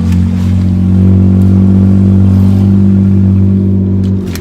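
Car engine running at idle, a loud, steady low drone that stops about four seconds in.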